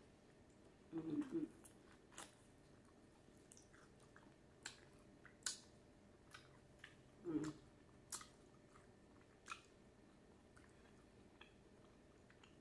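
Close, faint chewing of a fried chicken wing: scattered sharp wet mouth clicks and smacks, with two louder low mouth sounds about a second in and just past halfway.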